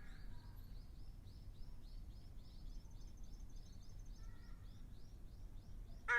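Ruddy kingfisher (Ryukyu subspecies) singing one long trill of evenly spaced down-slurred notes, about five a second, for some five seconds. Right at the end a short, loud harsh call cuts in.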